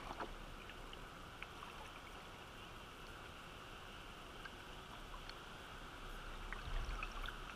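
Steady rush of flowing river water, with a few faint drips and ticks scattered through it.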